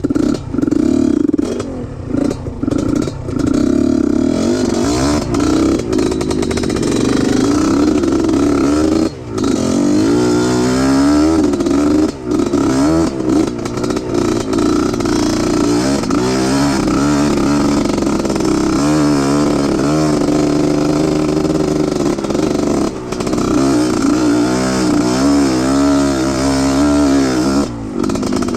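Trail motorcycle engine working hard, its revs rising and falling over and over as the throttle is blipped, with some clatter.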